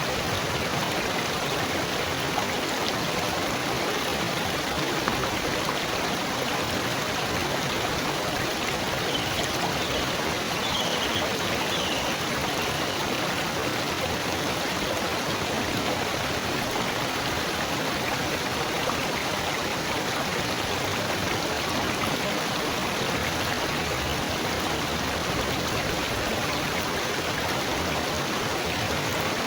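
Water trickling and splashing steadily, a continuous babbling flow with no break, with a few faint high chirps about ten seconds in.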